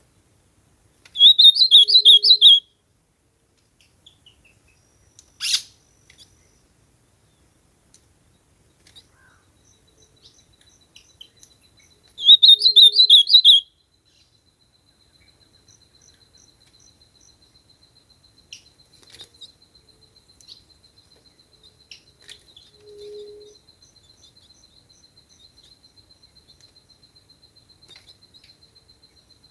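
Ultramarine grosbeak (azulão) singing two short warbled song phrases, each about a second and a half long and about ten seconds apart. A single sharp click comes in between.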